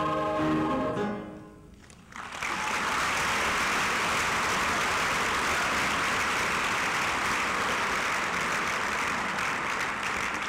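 A choir's held final chord dies away in the first second or two. After a short pause an audience breaks into steady applause, which lasts the rest of the time.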